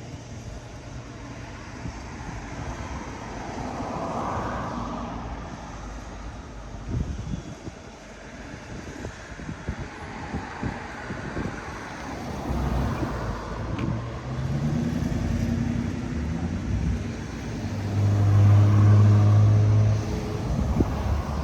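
A car engine running, with revs rising and falling amid road noise; a loud steady low drone near the end is the loudest part.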